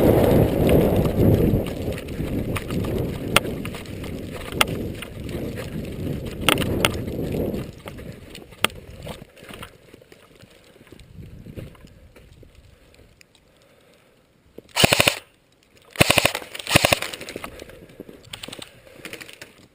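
Two short bursts of automatic airsoft gun fire, rapid closely spaced cracks, come near the end. Before them is a low rumbling noise with a few single sharp clicks, which then fades to quiet.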